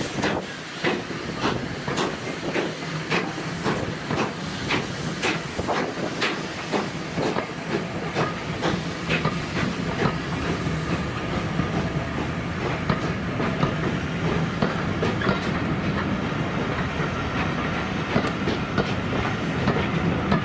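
A train passing, its wheels clicking over the rail joints at about two clicks a second, the clicks giving way to a steadier rolling rumble in the second half.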